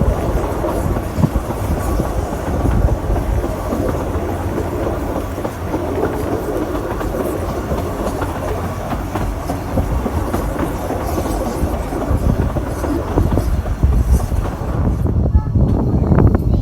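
Narrow-gauge train running on the rails: a steady rumble with wheels clicking over the track.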